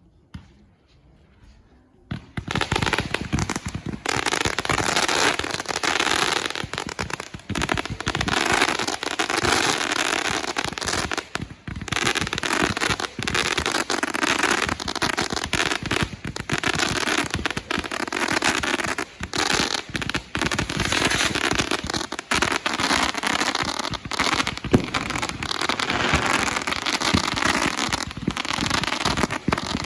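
Consumer fireworks going off. After about two seconds of quiet and one small pop, a dense, unbroken barrage of rapid bangs and crackling starts and keeps going.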